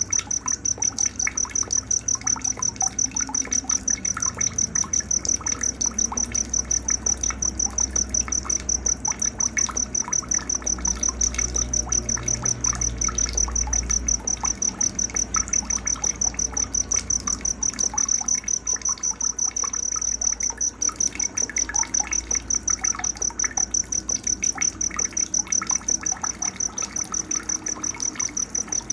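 Cricket chirping in a steady, even, high-pitched pulse, with scattered bird calls and chirps over it and a low rumble underneath.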